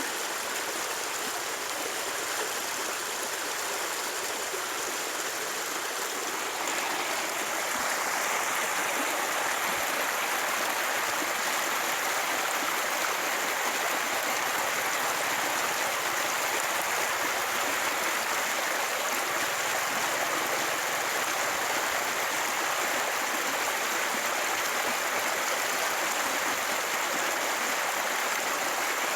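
Steady rushing noise of flowing water, growing louder about seven seconds in and then holding even.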